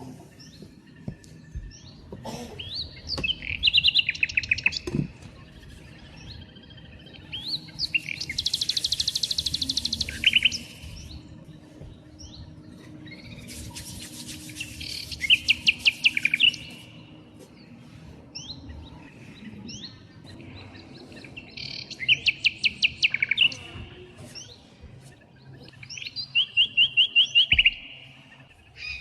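A songbird singing repeated trilled phrases, each about two seconds long, five times with pauses of a few seconds between.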